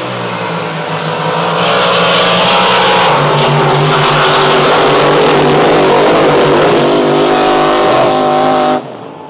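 Two drag boats, one Hemi-powered and one Ford-powered, running at full throttle side by side down a quarter-mile pass, the engine sound very loud and steady with the pitch shifting a few seconds in and again near the end. It cuts off abruptly near the end.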